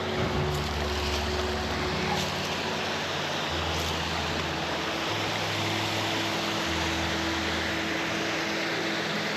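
Steady rush of flowing creek water, running high after rain.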